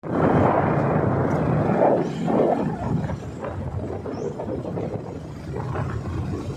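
A motor vehicle running: a steady rumble with a noisy hiss over it, loudest in the first two seconds.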